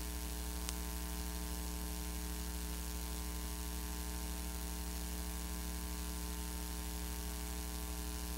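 Steady electrical mains hum with a light hiss on the playback of a blank stretch of VHS tape after the programme has ended, with a single faint click a little under a second in.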